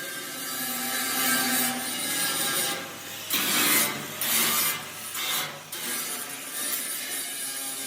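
Rasping, abrasive rubbing on workpieces, in several uneven strokes with short breaks between them, typical of sanding, filing or sawing during fabrication.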